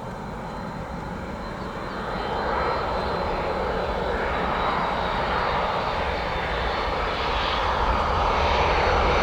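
Boeing 767-300ER jet airliner on final approach to land, its engine noise growing steadily louder as it nears, with a faint steady high whine.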